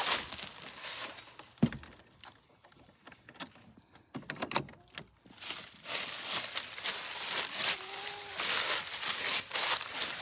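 Footsteps crunching and rustling over dry ground, with scattered small clicks and knocks. The sound is sparse at first and becomes a steady crackle about halfway through.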